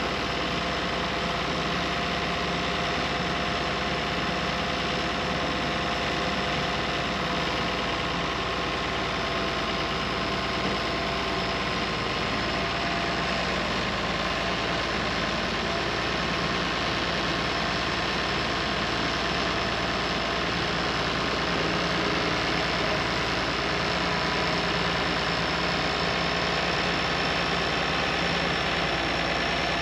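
An engine running steadily at a constant speed, with several steady whining tones over its low rumble.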